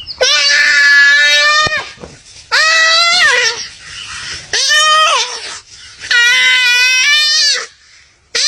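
A hoofed prey animal bleating loudly in distress, as from a deer caught by a big cat: four drawn-out, wavering cries about every two seconds, with a fifth starting near the end.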